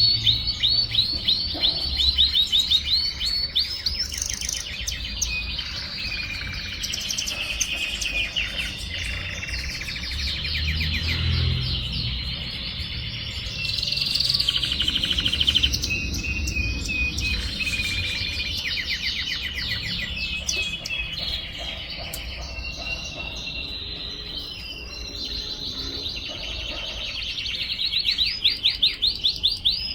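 Young timbrado canary singing, a juvenile still settling its song: phrases of rapid repeated notes and trills.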